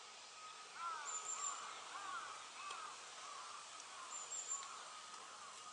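Wild birds calling outdoors: a run of short, arched chirps repeated many times, with a couple of thin, very high notes above them.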